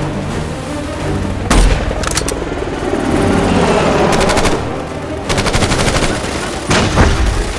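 Film-soundtrack automatic gunfire: rapid bursts of shots, a couple of them several seconds long, with a few single sharp shots or impacts and a film score underneath.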